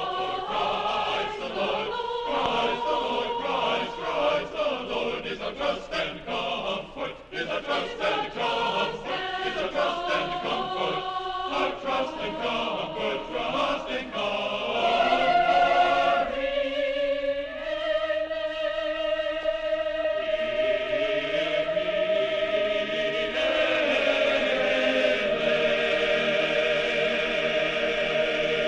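A choir singing a sacred choral piece: busy, fast-moving vocal lines for the first half, then long held chords through the second half.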